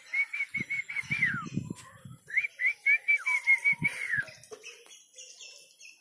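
Whistled bird song: two phrases of rapid repeated notes at one pitch, about six a second, each ending in a falling slur. A few low bumps sound under the first phrase.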